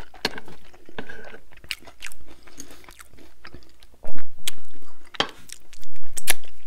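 Close-miked chewing of a mouthful of loaded tater tots, with sharp crunches every so often, the loudest about four seconds in and again near the end.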